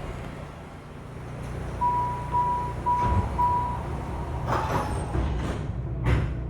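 MARTA railcar door warning chime beeping four times over a steady low hum of the stopped train, followed by a hiss of air and a sharp thud as the doors close.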